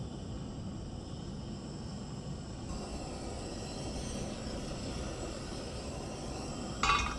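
Small portable propane burner running with a steady rushing noise as it heats a cast iron pan. A brief ringing clatter comes near the end.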